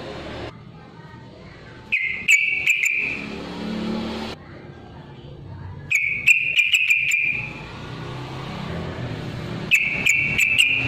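Yellow-vented bulbul (trucukan) singing: three short song phrases about four seconds apart, each with a few sharp notes at its start.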